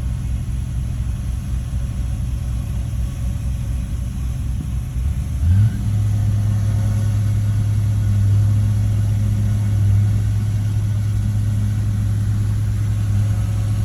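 Heavy diesel engine of a bulldozer running at low, uneven revs, then revving up about five seconds in and holding steady at higher speed.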